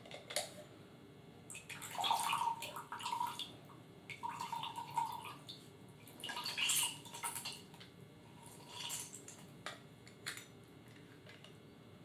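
A lemon half being squeezed in a hand citrus juicer, four wet squelching squeezes with small clicks as juice drips into a glass jar.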